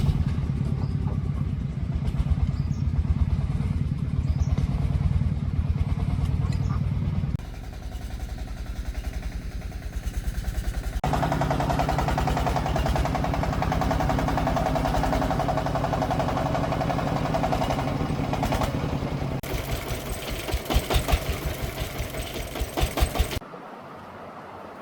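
Single-cylinder diesel engine of a công nông agricultural vehicle running with a fast, even chugging beat. The sound shifts in level and tone abruptly a few times, then drops to a quiet hum near the end.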